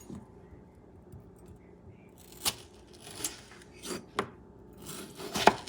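Kitchen knife cutting potato into wedges, the blade tapping the cutting board about half a dozen times at uneven intervals, mostly in the second half.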